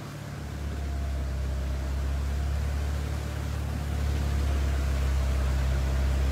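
Force Gurkha's diesel engine running steadily as it drives through deep floodwater, with a rushing wash of noise over its low hum that swells about a second in and again near the middle.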